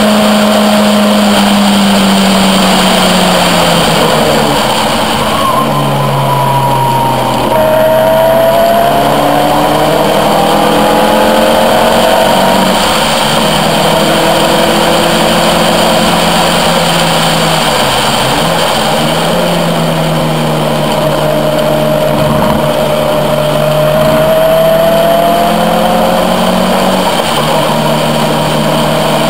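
Caterham R400's engine heard from the open cockpit at speed on track. The revs drop a few seconds in as the car slows, then rise and fall with the throttle, with long rising pulls around the middle and later on.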